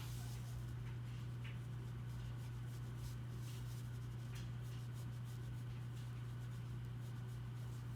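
Faint scratches of a drawing tool on paper, a few short strokes scattered through, over a steady low hum.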